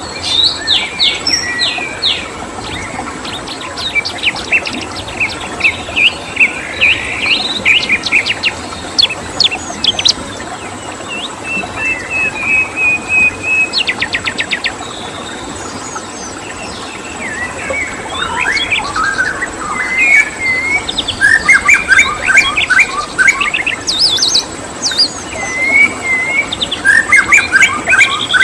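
Songbirds chirping and singing in quick, repeated whistled notes and rapid trills, several voices overlapping, over a steady background hiss and a thin continuous high insect tone.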